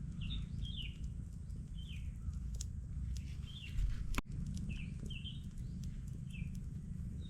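A bird chirping over and over in short, slightly falling chirps, roughly one or two a second, over a steady low rumble with a few sharp clicks.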